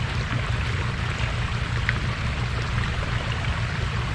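Steady rushing of running water from a pond-fed backyard creek, over a constant low hum.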